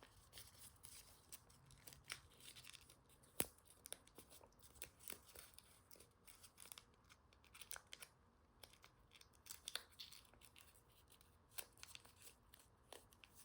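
Faint rustling and crinkling of origami paper being handled and creased, with scattered soft clicks of the paper and one sharper tick about three and a half seconds in, as a folded flap is tucked into a pocket.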